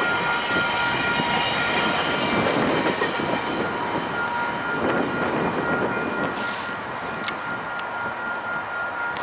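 A GO Transit bilevel commuter train passing and pulling away, its wheels and cars rumbling and slowly fading, with a thin high squeal from the wheels. A level-crossing bell rings steadily behind it.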